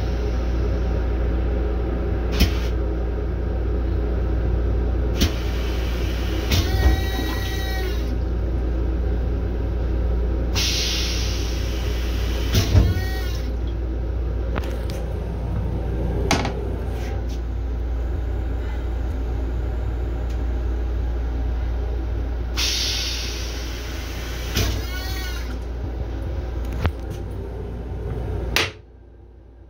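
Long Island Rail Road M7 electric railcar running, heard inside its restroom: a steady rumble with a low hum, three spells of hissing, several knocks and a few short squeals. The level falls away sharply about a second before the end.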